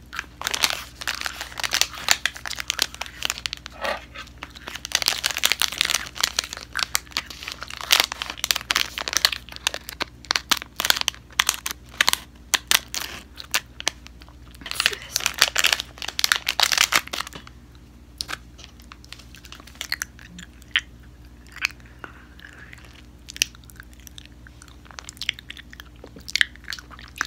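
Close-up crunching and chewing of a snack, with a plastic snack pouch crinkling and being cut open with scissors about halfway through. The last third is quieter, with only scattered small clicks.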